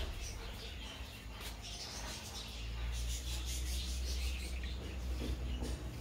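Faint high bird chirps over a low, steady rumble that grows louder about two and a half seconds in.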